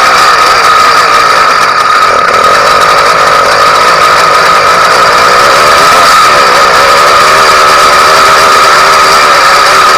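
Freshly ported YD100 two-stroke motorized-bicycle engine running loudly and steadily on its first start-up, its pitch wavering slightly as the revs drift.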